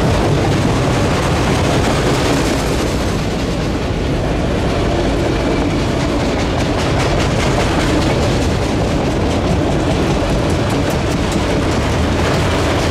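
Autorack freight cars rolling past at close range: a steady, loud rumble and rattle of steel wheels on the rails, with some clickety-clack over rail joints.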